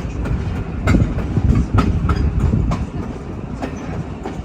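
Freight train cars rolling past: a steady low rumble with sharp, irregular clicks as the wheels cross rail joints.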